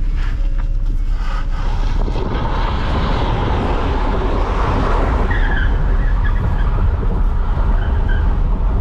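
Ford Taurus engine held at high revs while its tyres spin through a donut burnout, the tyre noise swelling through the middle with brief squeals.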